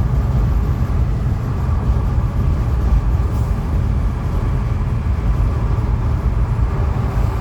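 Steady cabin noise of a Honda Elevate cruising at highway speed: low road and tyre rumble with the engine running underneath.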